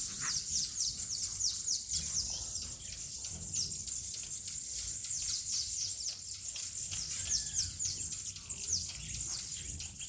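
Birds chirping: many short, high downward-sweeping chirps, several a second and overlapping, with a couple of lower arched calls about seven seconds in.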